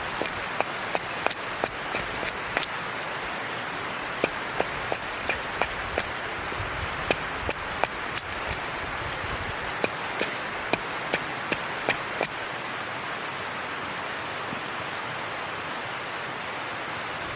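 Wood fire crackling: a steady hiss with sharp, irregular pops, several a second for about the first twelve seconds, then only a few.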